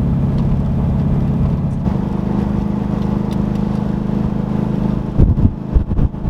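1972 De Tomaso Pantera's 351 Cleveland V8 running while the car is driven, its note stepping up about two seconds in. From about five seconds in, loud irregular low thumps break in over it.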